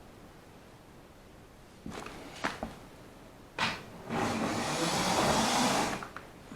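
A few clicks and a sharp knock, then a model train running for about two seconds with a steady rushing noise before it stops abruptly. The stop fits a model locomotive that does not run reliably on this line.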